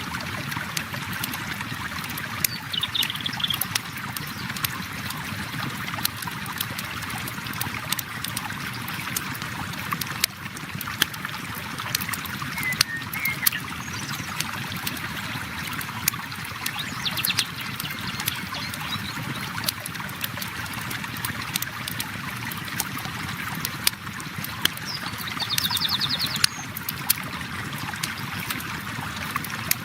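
River water flowing steadily with a wood campfire crackling in sharp irregular pops. A few short high trills come through near the start, around the middle and near the end.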